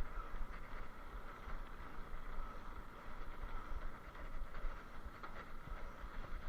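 Wind buffeting the microphone over a steady rumble of riding along a rough trail, with no clear engine note.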